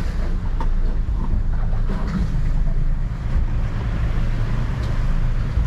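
Boat engine running steadily under way, a low rumble, with wind on the microphone.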